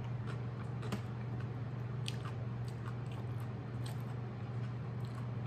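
A person chewing a mouthful of burger, with a few soft clicks scattered through it, over a steady low hum.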